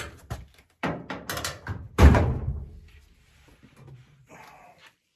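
Dryer top panel being pried up with a putty knife: a run of clicks and knocks, the loudest a thunk about two seconds in, then faint scraping.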